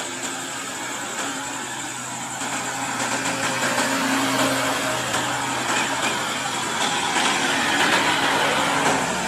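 Engines of slow-moving cars, vans and jeeps running in a queue of road traffic, with a steady low hum. They grow louder from about three seconds in as vehicles pass close by.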